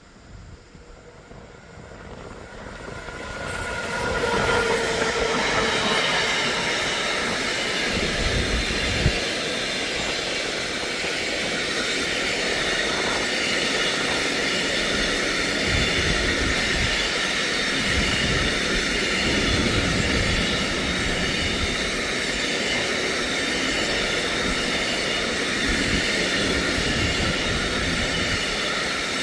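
Train approaching and passing close by on the electrified main line. The wheel-on-rail running noise builds over the first few seconds, then holds loud and steady as the cars go past.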